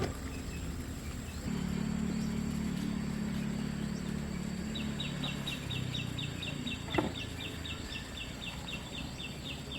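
A bird's rapid string of short high chirps, about four a second, over a low steady hum, with a single sharp knock about seven seconds in.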